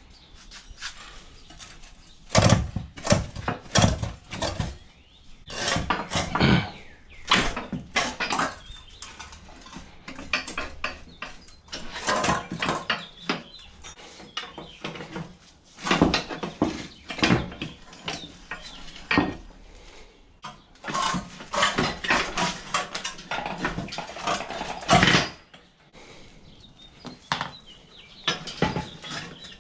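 Hand tools and metal car parts clanking and knocking irregularly while suspension components are unbolted from a car's subframe. The clatter comes in bunches with short pauses between them.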